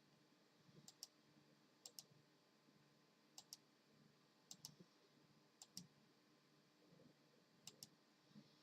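Faint keyboard keys being struck, one key at a time in quick double clicks: six pairs at uneven intervals about a second or two apart, over a faint low hum.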